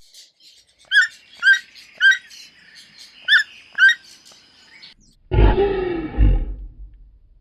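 A bird chirping five times in quick short notes, followed about five seconds in by a large animal's low, drawn-out roar.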